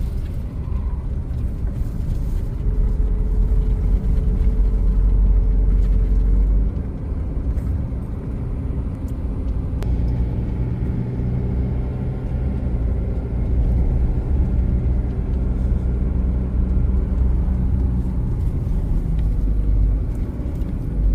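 A car driving: a steady low engine and road rumble, easing off about six and a half seconds in and building again from about ten seconds.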